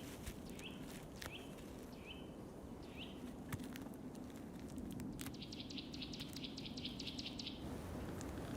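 Bird chirping: several short, separate rising chirps over the first three seconds, then a fast run of high, clicking notes, about eight a second, lasting a couple of seconds.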